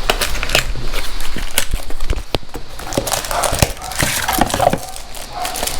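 Instruction papers and their packaging being handled and opened, rustling and crinkling with many small irregular clicks.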